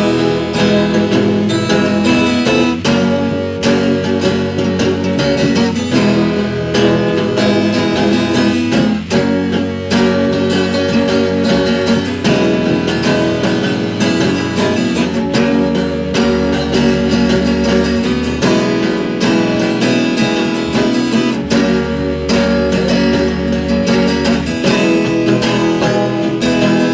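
Acoustic instrumental music: strummed and plucked acoustic guitar with sustained low bass notes, no singing.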